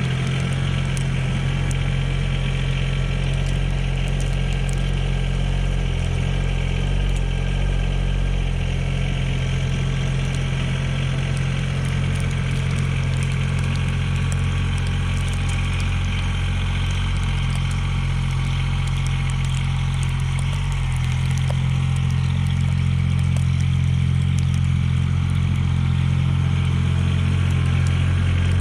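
Mahindra eMax 20S HST compact tractor's diesel engine running steadily, getting a little louder after about twenty seconds.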